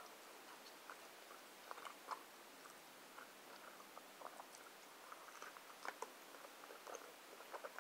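Faint chewing of food wrapped in a soft flour tortilla: quiet, scattered mouth clicks and smacks.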